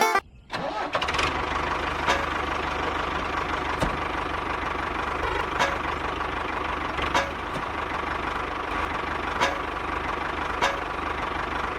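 Small engine running steadily at idle, with a sharp click every second or two.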